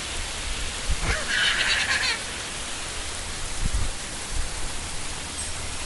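Heavy rain falling steadily, with a brief high-pitched cry about a second and a half in and a couple of low thumps.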